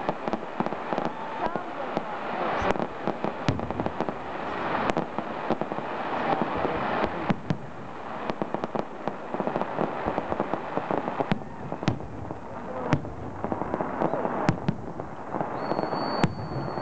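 Aerial fireworks display: shells bursting overhead with repeated sharp bangs and crackling, and a high steady whistle near the end.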